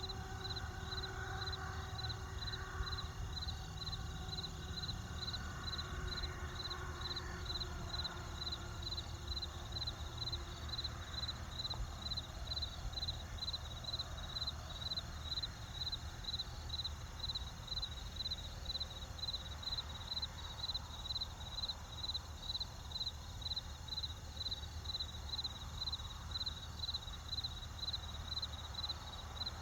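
Cricket chirping steadily, a high pulsed chirp about twice a second, over a low steady rumble.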